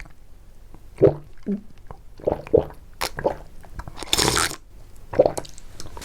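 Close-miked mouth chewing and squishing of soft, jelly-like food in short, irregular bites, with a louder hissy burst about four seconds in.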